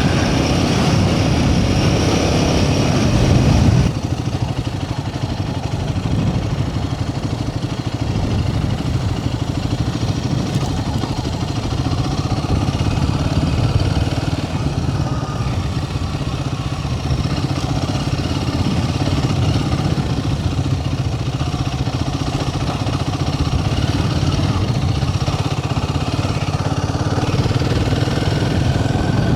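Royal Enfield Himalayan 450's single-cylinder engine running steadily while riding, with a rush of noise over it; the sound drops in level and brightness about four seconds in.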